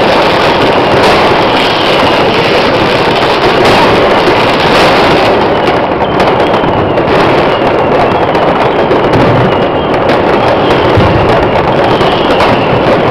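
Many fireworks, rockets among them, going off at once in a loud, unbroken mass of crackling and bangs, with faint whistles now and then.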